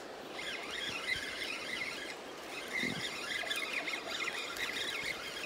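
Faint birdsong: quick chirping and warbling phrases over a light outdoor hiss.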